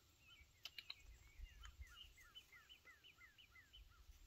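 Faint chirping of a small bird: short rising-and-falling notes repeated about three times a second, with a few light clicks about a second in.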